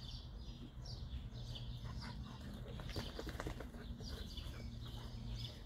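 A songbird repeating short, falling chirps over a steady low hum. About two seconds in comes a quick run of clicks and scuffles, which fits the two big dogs play-wrestling.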